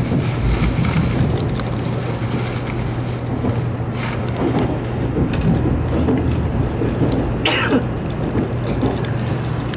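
Inside a moving Tokaido Shinkansen train: steady cabin running noise, a rumble with a constant low hum. Two short rushing sounds stand out, about four seconds in and near seven and a half seconds.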